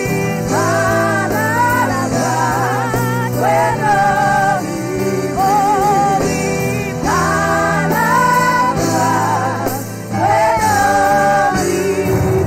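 Gospel worship singing: sung melody lines over sustained keyboard chords.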